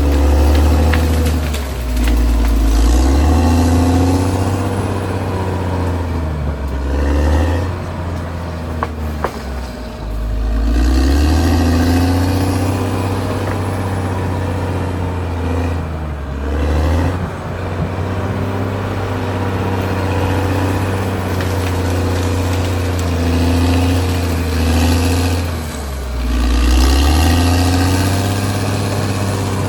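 Caterpillar D6R XL bulldozer's diesel engine working, its note dipping and rising again about three times.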